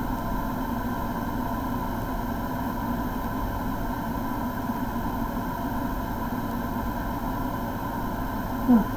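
A steady, even mechanical hum of a running motor, unchanged throughout, with a brief vocal sound near the end.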